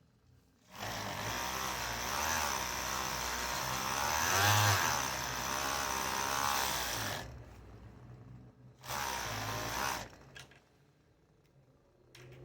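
Electric sewing machine stitching tablecloth fabric, running in a long burst of about six seconds with its motor speed wavering, then a second short burst of about a second.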